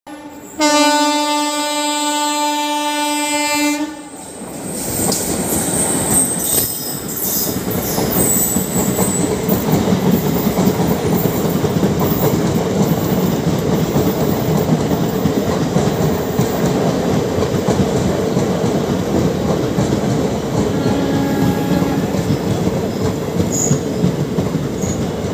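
Indian passenger train's horn sounds one long, steady blast of about three seconds. Then the coaches run past at speed, wheels clattering over the rail joints in a continuous rush. A short horn note sounds again about twenty-one seconds in.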